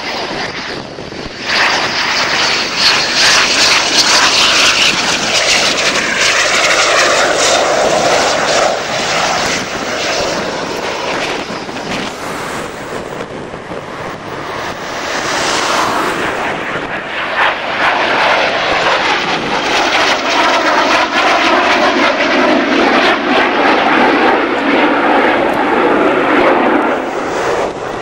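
Fixed-wing aircraft engines running loud in two long spells. The first comes about two seconds in and eases off around ten seconds; the second builds from about seventeen seconds and fades near the end.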